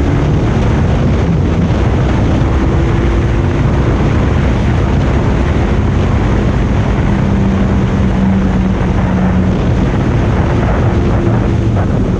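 Motorcycle engine running at high road speed, buried under heavy wind buffeting on a front-mounted camera's microphone; the engine note drops lower partway through.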